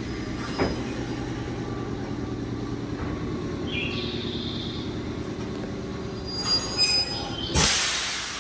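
Nankai 2200-series train standing at the platform with a steady low hum from its equipment, a click early on, short high-pitched squeals about four and seven seconds in, and a loud hiss near the end that fades away.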